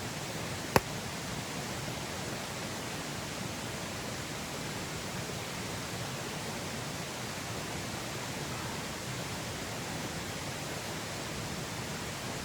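Steady rushing of water, with a single sharp snap a little under a second in.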